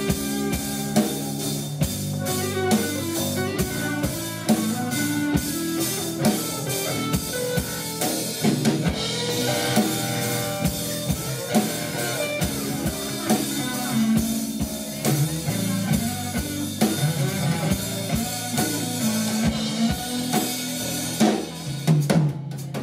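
Live rock band playing an instrumental passage, with drum kit and guitars.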